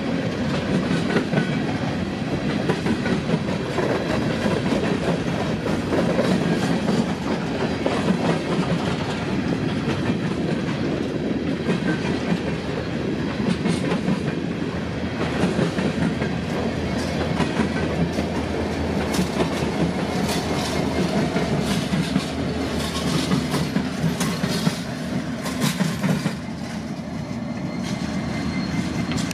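Freight train hopper cars rolling past, steel wheels clacking over rail joints with a steady rumble, the sharp clacks more frequent in the second half. Near the end the clatter gives way to a quieter, steadier rumble as a diesel locomotive approaches.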